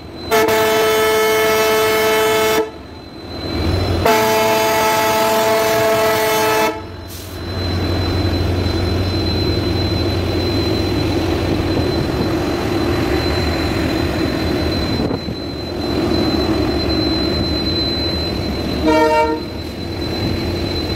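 Diesel locomotive sounding two long horn blasts, each about two and a half seconds, with a short gap between them. Then a steady rumble of the engine and the moving train as it departs, with a brief high-pitched sound near the end.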